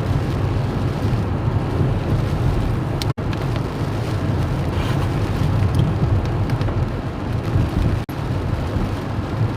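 Steady rumble and rush heard inside a car cabin, with the heater blower running on full. The sound drops out for an instant twice.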